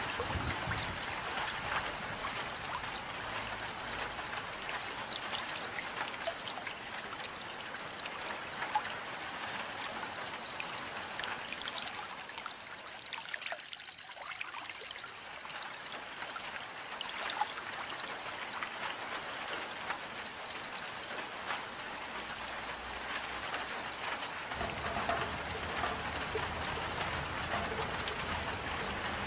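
Steady rain: an even hiss of falling water with scattered single drops ticking through it.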